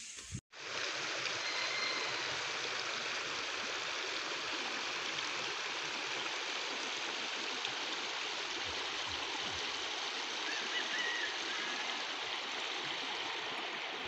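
Shallow rocky river rushing over stones and small rapids: a steady, even rush of water that starts about half a second in.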